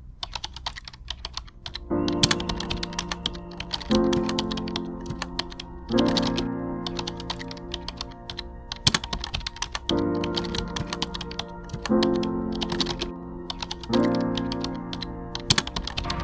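Rapid computer-keyboard typing clicks over a music intro. From about two seconds in, sustained chords enter, each struck about every two seconds and fading before the next.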